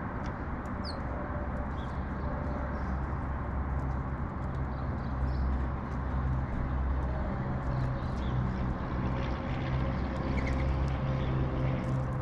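A vehicle engine running low and steady, getting somewhat louder about a third of the way in, with a few faint small-bird chirps over it.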